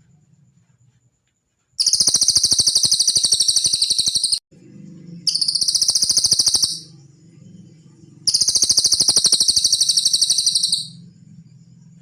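Cililin bird song: three long, very high trills made of rapid repeated notes, each lasting about two to three seconds, with short gaps between them.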